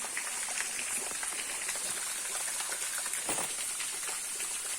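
Amazon rainforest ambience: a steady high-pitched hiss with many small scattered ticks and crackles, and one slightly louder knock a little past the three-second mark.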